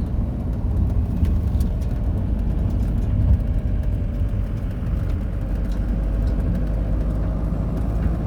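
Steady low rumble of a car's engine and road noise while driving, with a brief bump about three seconds in.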